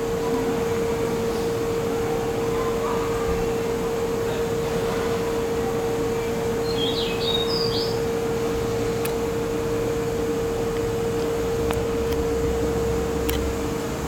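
Steady running noise of the Izukyu 'Kurofune' train, with an even rumble and a constant hum. A short high chirp sounds once about halfway through.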